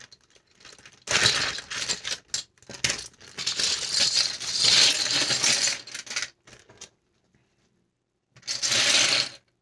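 Loose plastic LEGO bricks clattering, a dense run of small clicks for about five seconds, then a pause and a second shorter clatter near the end, like bricks being poured or tipped out and stirred.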